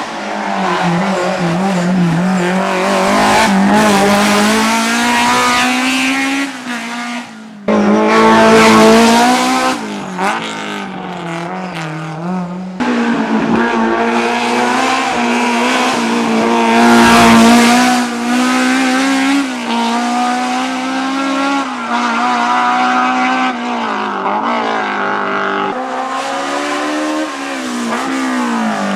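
BMW M3 E30 race car's four-cylinder S14 engine at full throttle up a hill climb. It revs up and drops back through repeated gear changes and lifts, with tyre squeal. The sound jumps abruptly twice as one run cuts to another.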